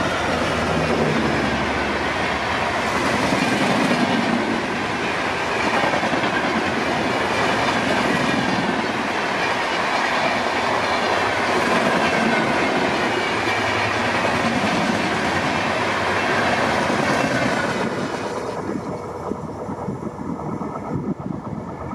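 An express passenger train hauled by a WDP4D diesel locomotive passes close at speed. The locomotive goes by at the start, then a long run of coaches follows with a steady, loud rush of wheels on the rails. The noise fades and dulls about 18 seconds in as the last coach pulls away.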